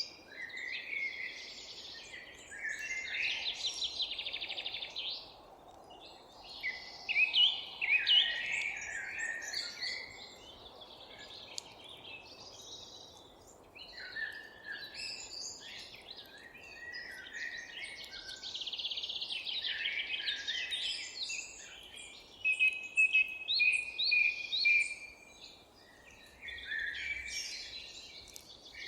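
Several songbirds singing at once in a continuous chorus of chirps, fast trills and whistled phrases, over a faint low background rumble.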